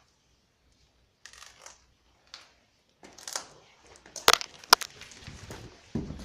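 Crunching and scraping of footsteps on debris, with two sharp knocks about half a second apart in the middle.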